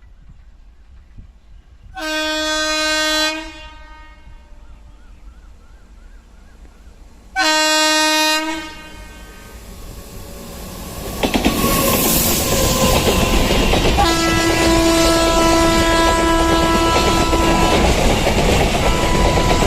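Freight train's locomotive horn sounding two blasts of about a second and a half each. The train then arrives and passes close with a loud steady rumble and wheel clatter, and the horn is held again for a few seconds during the pass.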